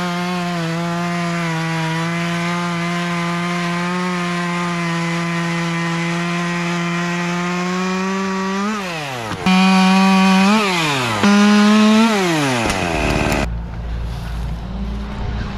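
Two-stroke chainsaw held at high revs with a steady engine note. About eight seconds in the throttle is released, then it is revved twice briefly before dropping to a low idle.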